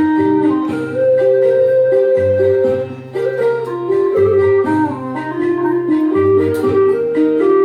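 Instrumental music: a sáo Mèo (Hmong bamboo flute) melody of held notes with short slides between them, over sustained low bass and keyboard accompaniment.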